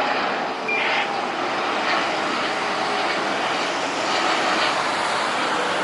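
Airliner engines passing close by, a steady loud rush of engine noise.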